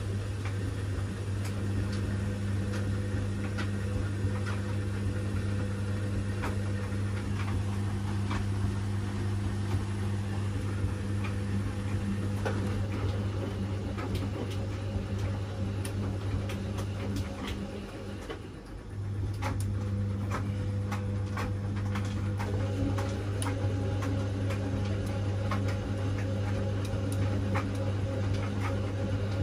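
Washing machine running a wash cycle: a steady motor hum as the drum turns, with scattered light clicks. A little past halfway the motor stops for about a second, then starts up again.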